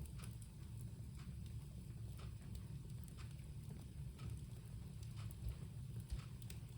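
Wood bonfire crackling: irregular sharp pops and snaps over a low steady rumble.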